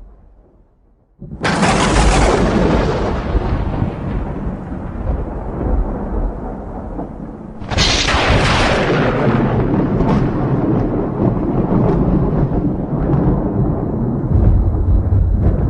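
Thunder: a sudden crack about a second in that rolls into a long low rumble, then a second sharp thunderclap about halfway through that rumbles on.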